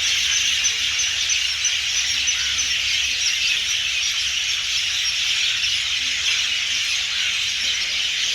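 Dense chorus of many birds calling at once, a steady high-pitched chatter with no single song standing out.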